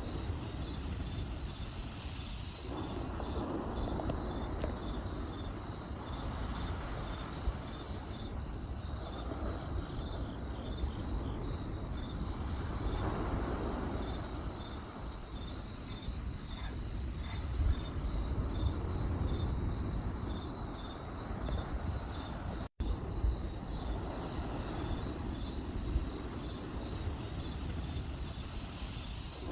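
Crickets chirping in a steady rapid trill over the low rumble of a campfire, which swells and fades, with a few sharp crackles. The sound cuts out for an instant about 23 seconds in.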